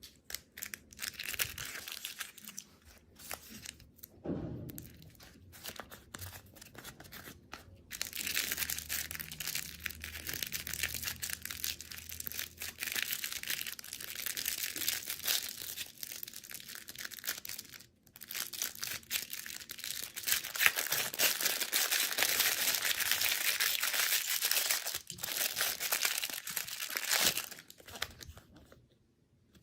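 Plastic candy packaging being torn open and crinkled: scattered crackles at first, then a long stretch of dense crinkling with a short break partway through.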